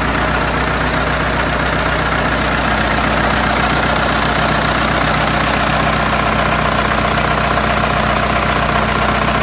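Hanomag farm tractor's diesel engine running steadily at an even speed, close up.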